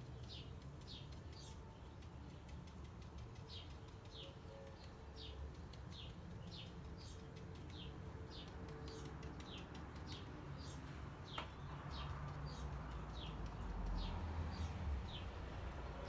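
A small bird chirping over and over: short, high chirps that slide downward, about one or two a second.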